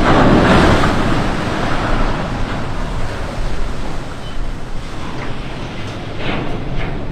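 Waves washing at the shore with wind buffeting the microphone, a dense rushing noise that is loudest in the first second or so and eases off, with two short brighter rasps near the end.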